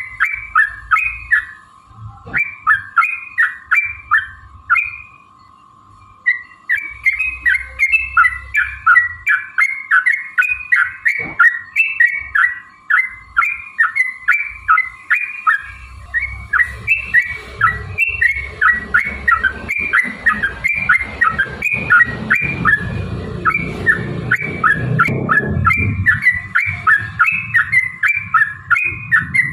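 Yellow-vented bulbul (trucukan) singing a long, fast run of bubbly chirping phrases, a few notes a second, pausing briefly about five seconds in and then running on. A low rumble sits under the song in the second half.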